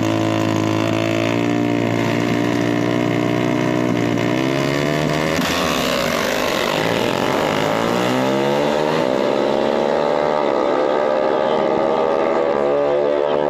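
Drag-racing motorcycle engine running at high revs, held steady at first; about five seconds in the pitch breaks and drops, then climbs over several seconds as the bike accelerates before levelling off.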